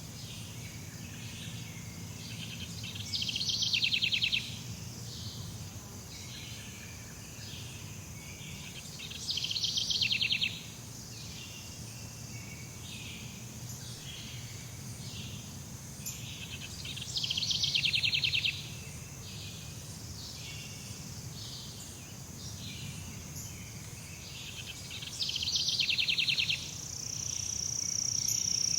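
Tropical jungle ambience: a steady high drone of insects, with a loud, rapidly pulsing trill call that comes four times, about every seven to eight seconds, each lasting a little over a second. Near the end a high, even insect drone swells up.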